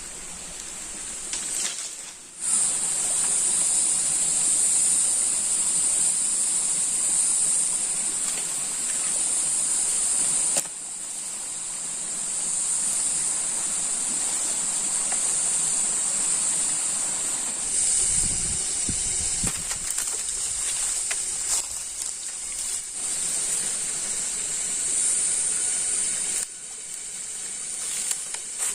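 Steady, high-pitched drone of rainforest insects. It breaks off briefly near the start and shifts in loudness abruptly twice, with a few faint knocks and a low rumble partway through.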